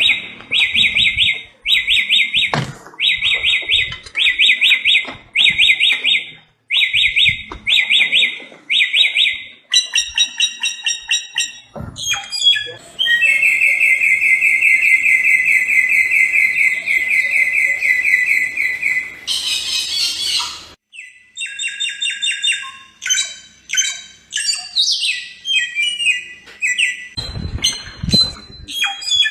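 A samyong bird singing loudly. It gives short, rapid trilled phrases over and over, then one long unbroken trill of about six seconds in the middle, and ends with a run of varied sharp chirps.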